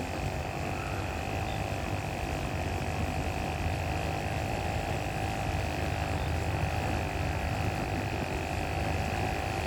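Weed eater (string trimmer) engine mounted on a kayak, running at a steady speed as an outboard motor: a constant hum with a steady high whine over it.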